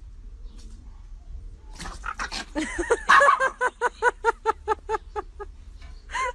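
A dog yapping in a quick run of short, high calls, about four to five a second, fading off after a few seconds, with one more call near the end.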